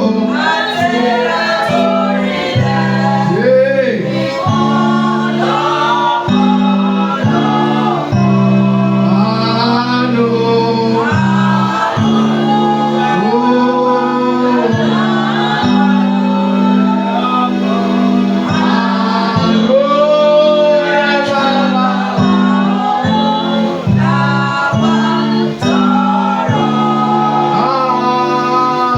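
Gospel worship singing: a male lead voice with other voices joining, sung over steady held low chords.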